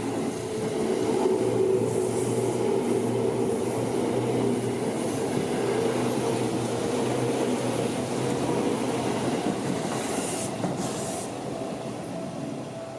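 Seibu Shinjuku Line electric train running past over the level crossing: a steady rumble of wheels on rail with a motor hum, and brief high hisses about two seconds in and again near ten seconds in. The sound eases off near the end.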